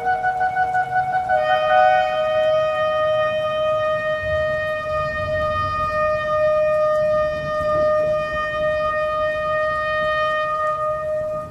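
Shofar (ram's horn) sounding one long, steady blast. About a second and a half in it takes over from a higher note, and it ends just before the close.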